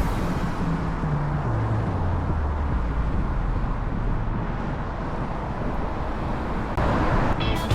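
Road traffic noise, with a motor vehicle's engine running close by; its low tone drops in pitch over the first couple of seconds.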